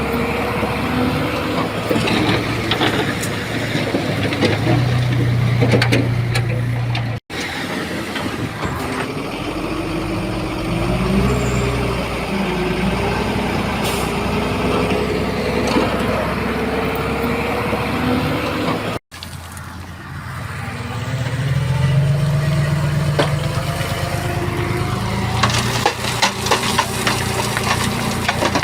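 Diesel engines of heavy earthmoving machinery running under load, their pitch rising and falling. The sound breaks off abruptly twice, and clattering, knocking sounds come in near the end.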